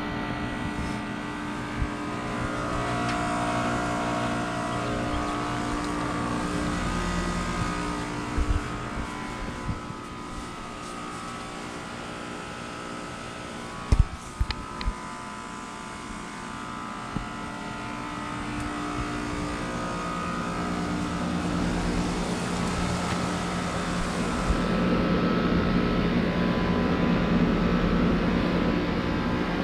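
Carrier Comfort 15 heat pump outdoor units running, with a steady hum of several tones from compressor and fan over a rush of air. There are a few short knocks near the middle, and the sound grows louder in the second half.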